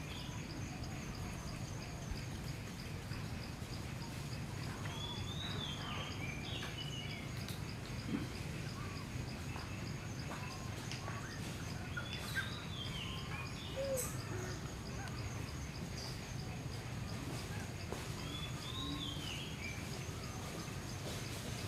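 Forest ambience: a bird repeats a short falling call about every six seconds over a steady high insect drone and a low background hum, with a few faint ticks.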